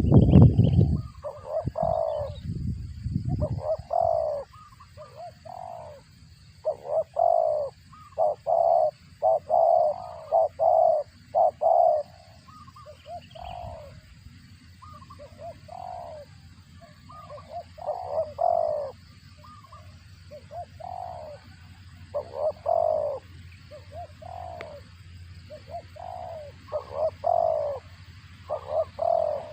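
Spotted dove cooing in repeated groups of short notes, with pauses between phrases. A loud low rumble comes in the first second or so.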